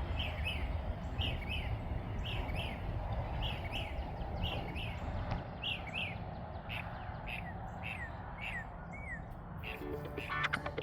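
A bird singing a repeated series of short, falling chirps, about one or two a second, over a steady low background rumble. Music comes in just before the end.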